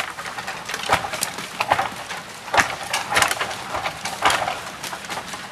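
A hand tool cutting into a standing tree's wood: a string of irregular, sharp woody strokes, roughly one to two a second, some of them splintering.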